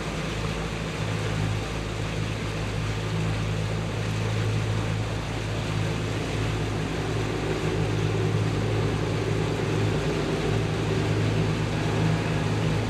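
A boat's motor running steadily while under way, a constant low hum with an even rush of water and wind over it.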